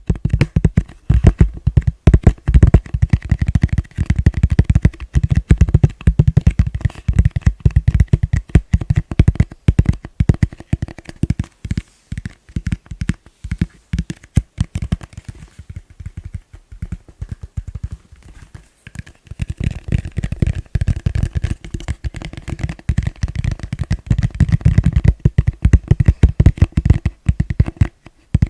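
Fingers tapping fast on a plastic bowl, a dense run of quick hollow taps that eases off and grows quieter for a few seconds in the middle before picking up again.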